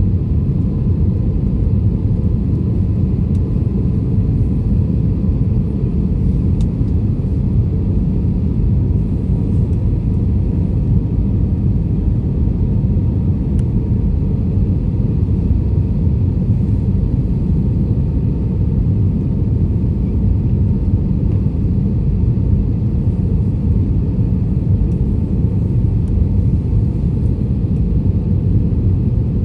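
Airbus A320 airliner's steady low rumble, unchanging throughout, with a faint thin whine above it.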